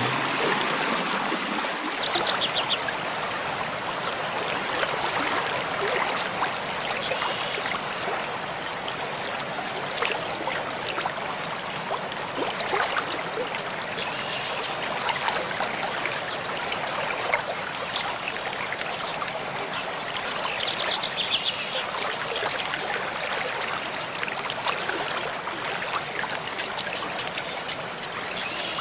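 Mountain stream running steadily, with a short high bird trill about two seconds in and again about twenty seconds in.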